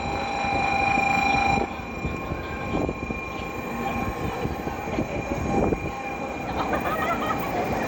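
Shinkansen bullet train moving alongside a station platform: a steady rushing rumble, with a high whine over it that drops away about a second and a half in.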